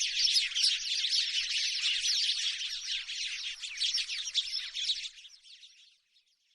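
House sparrows chirping: a dense chatter of many rapid, overlapping chirps, which fades out about five seconds in and stops about a second later.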